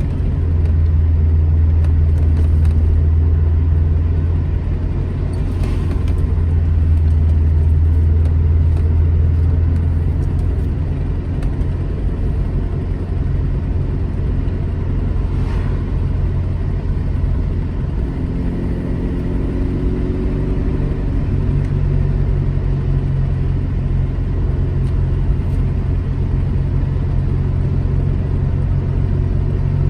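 Alfa Romeo GT Junior's twin-cam four-cylinder engine running steadily on the road. Its note shifts in pitch about a third of the way in and again about two-thirds through.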